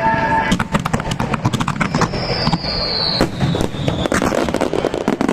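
Fireworks going off: a dense run of bangs and crackles from about half a second in, with a whistle falling in pitch from about two to four seconds in.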